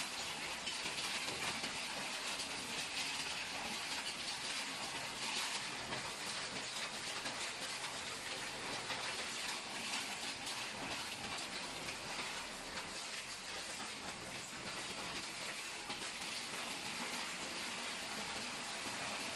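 Paint-bucket crusher running, a steady dense clatter and hiss of metal being broken up, with no single knock standing out.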